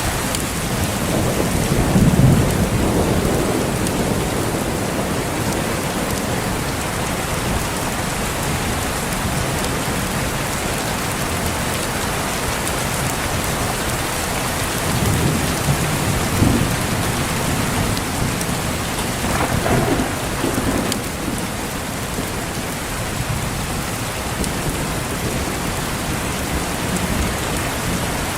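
Steady heavy rain falling, with rolls of thunder rumbling over it about two seconds in, again around fifteen to seventeen seconds, and once more near twenty seconds.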